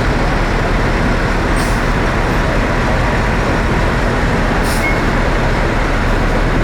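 Heavy truck engine running steadily, heard as a loud, even rushing rumble.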